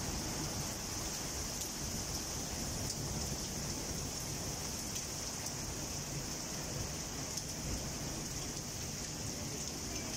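Heavy rain falling steadily, a constant even hiss with now and then a faint sharp tick.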